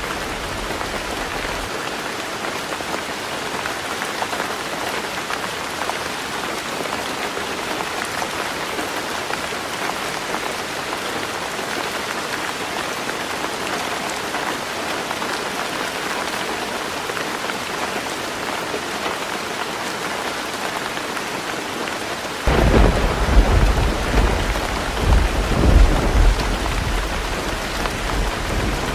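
Heavy rain falling steadily on a roof. A low rumble of thunder dies away in the first couple of seconds. Near the end a louder thunder rumble starts suddenly and swells twice.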